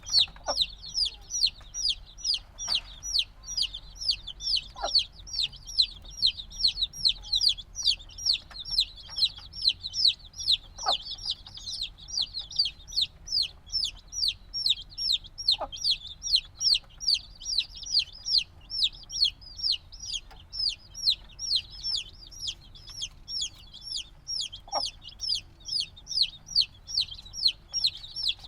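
Newly hatched chicks, a few days old, peeping continuously and loudly: a steady stream of short, high calls that fall in pitch, about three a second, with a few faint taps among them.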